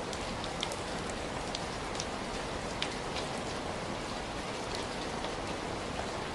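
Heavy rain falling steadily, a dense even hiss with scattered sharper drop ticks on a surface.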